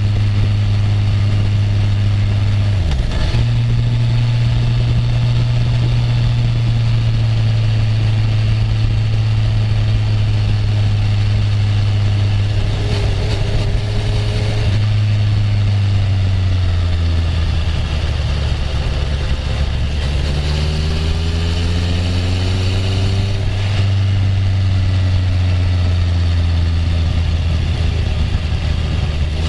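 Honda CB650F's inline-four engine running steadily under way, loud throughout. There is a brief dip in engine note about three seconds in. The pitch eases down in the middle and rises again as the bike picks up speed.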